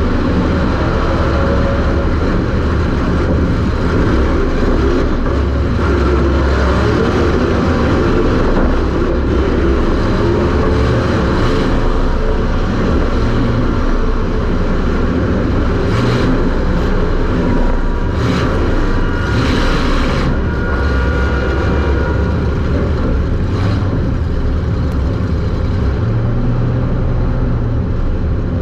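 Super Stock race car engine running hard under racing load, heard from inside the car, loud and continuous with its pitch rising and falling. A few short knocks come in the second half.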